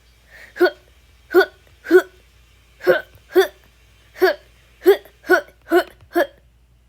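A person's voice making short, hiccup-like "hught" grunts, one per tap, about ten at uneven intervals.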